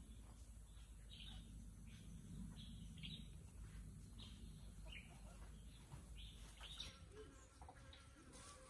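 Faint, short bird chirps repeating roughly twice a second over a quiet background.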